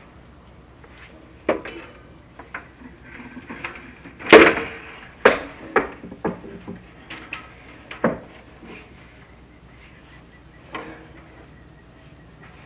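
Chimney inspection camera knocking and scraping against the stone and mortar of the flue as it is lowered: scattered irregular knocks, the loudest a longer scrape about four seconds in.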